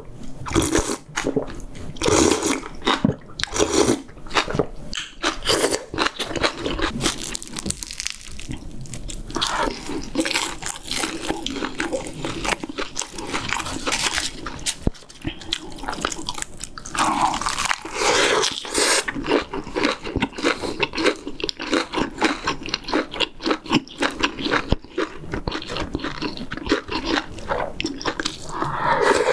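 A person chewing and biting mouthfuls of braised pork back ribs and kimchi stew close to the microphone, with crunching bites and wet mouth sounds.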